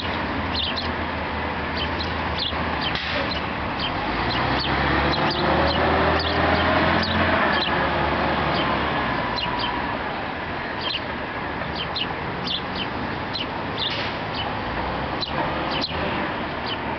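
Many small birds chirping with short, sharp calls over steady outdoor noise. A low drone swells and fades in the middle.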